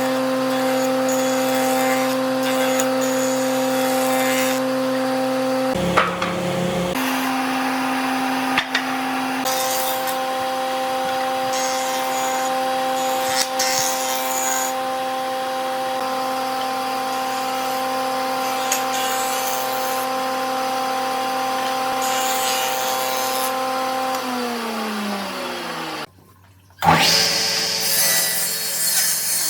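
An electric woodworking power tool runs at a steady pitch while it works wood, with a few brief knocks and breaks. Near the end the motor is switched off and winds down, falling in pitch. After a short gap, a noisier, hissing rub on wood starts.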